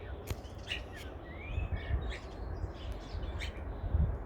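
Small birds chirping outdoors in short calls that sweep up and down, with a few sharp clicks and a low rumble underneath.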